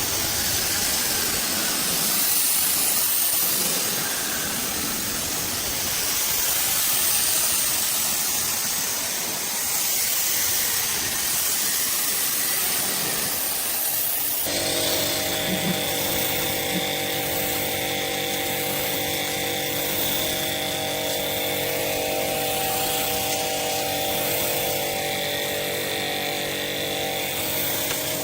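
A steady hiss, then about halfway through an abrupt change to a motor running steadily with a hum of several held tones.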